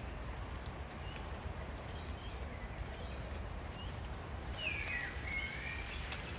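Steady outdoor background noise with a low rumble, and a short burst of chirping bird calls with quick up-and-down glides about five seconds in, then two brief high chirps near the end.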